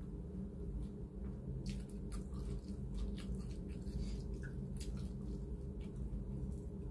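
Close-up eating sounds: chewing, with scattered small wet mouth clicks and smacks, while eating rice and shredded chicken by hand. A steady low hum runs underneath.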